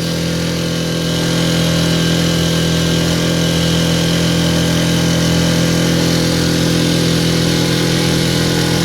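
Mercury 4 horsepower outboard motor running steadily at full throttle under load, a little louder about a second and a half in. The operator feels it is not reaching the revs it should.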